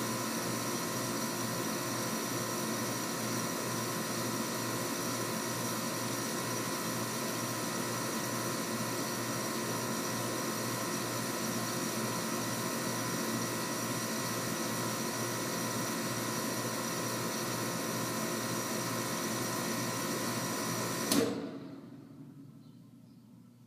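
Central air conditioner outdoor condensing unit running with a steady mechanical hum and regular low pulsing, then shut off about 21 seconds in: a sharp click, and the sound dies away over about two seconds.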